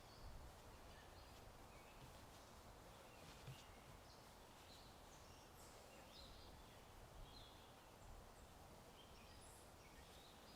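Faint birdsong: scattered short chirps and calls over a steady, low outdoor background hiss.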